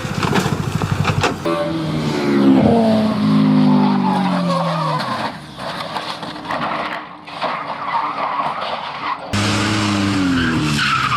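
Car and road sounds from short dashcam crash clips: engine and tyre noise with a pitched engine note falling away a couple of seconds in. After an abrupt cut near the end, another falling engine note follows.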